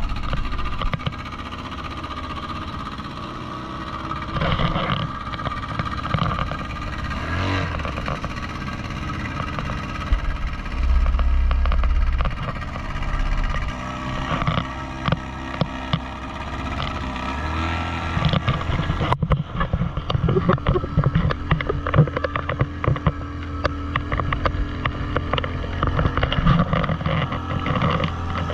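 Outboard motorboat engine running steadily, with wind rumbling on the microphone and water spray crackling in the second half.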